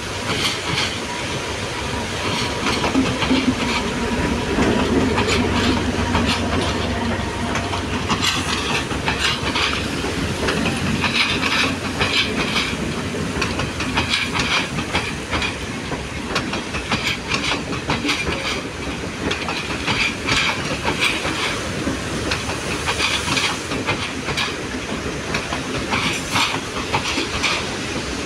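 Diesel-hauled passenger train passing close by: the locomotive's engine drones low for the first several seconds, then the carriages roll past with repeated clickety-clack as wheel sets cross the rail joints, over a steady rushing hiss.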